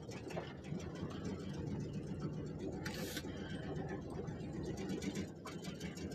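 1993 Chevy Cheyenne utility truck's engine idling steadily while still cold, with a brief hiss about three seconds in.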